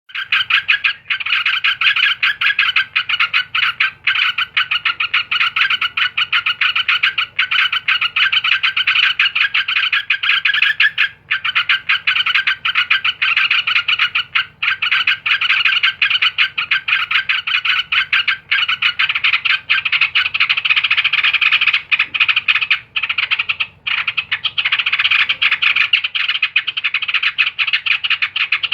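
Yellow-vented bulbul (trucukan) calling in a fast, unbroken chattering trill, pausing only briefly a few times.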